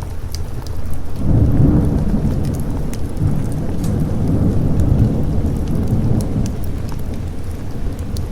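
Thunder rumbling over steady rain, swelling about a second in and rolling on, with scattered sharp drips.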